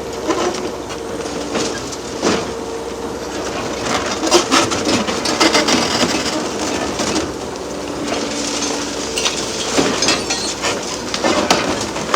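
Hydraulic demolition excavator at work breaking up a concrete bridge: a steady engine and hydraulic whine under repeated knocks, cracks and scrapes of concrete and steel being crushed and falling.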